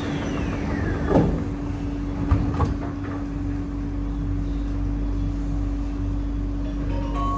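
The sliding doors of a C151A metro train closing: a falling whine ends in a thump about a second in, followed by two sharp clicks a little after two seconds as the doors lock. A steady hum runs underneath, and a chime of bell-like notes begins near the end.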